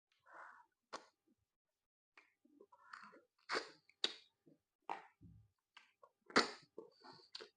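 Close-up chewing of soft-cooked plantain and soup, with irregular wet mouth clicks and smacks.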